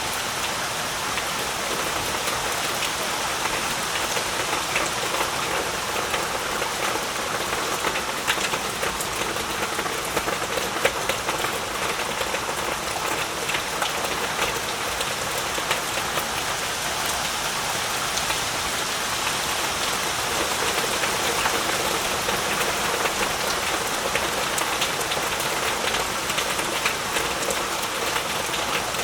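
Heavy rain falling steadily, a dense even hiss with many small drop ticks spattering on surfaces.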